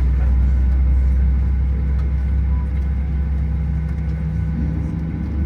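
Steady low rumble and hum of a Boeing 737-900ER heard from inside the cabin during pushback and engine start, with the sound of its CFM56-7B engines and air systems. About four and a half seconds in, the hum shifts a little higher.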